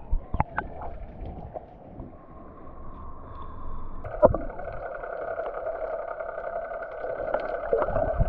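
Tour boat's engine running at a steady pitch, its hum growing louder about four seconds in, with a single sharp knock just after.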